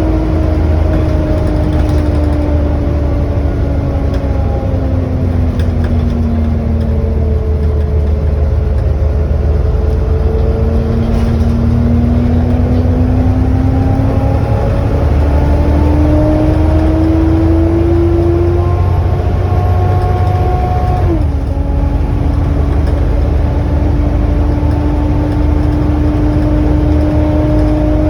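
Volvo B7TL double-decker bus with its Volvo D7C engine pulling, heard on board: a loud whine, the 'hoover' sound, over a low engine rumble. The whine sinks in pitch, then climbs as the bus accelerates, drops abruptly at a gear change about three quarters of the way through, and then holds steady.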